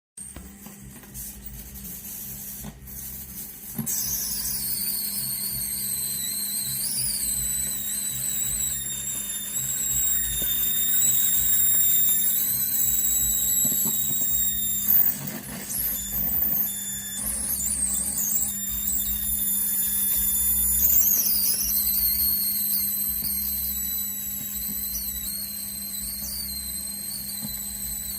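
Technics KN-7000 keyboard's faulty audio output: a steady electrical hum with a low rumble under it, joined about four seconds in by high whistling tones that wander and jump in pitch. This hiss-and-rumble noise is the fault, put down to a damaged IC.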